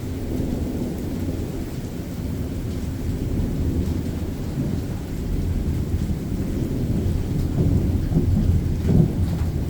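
Thunderstorm: a long, low rumble of thunder that rolls on without a break and grows louder toward the end, over steady rain.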